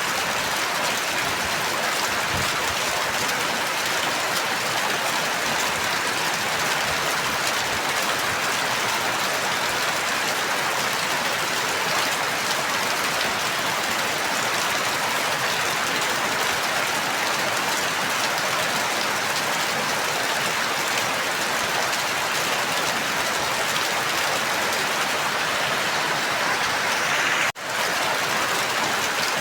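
Steady, dense rain falling, an even hiss with no break in its rhythm. Near the end it cuts out for an instant and comes straight back.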